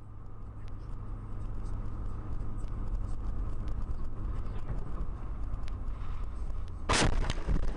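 Steady road and engine rumble of a moving car, with a sudden loud bang about seven seconds in, followed by further jolts.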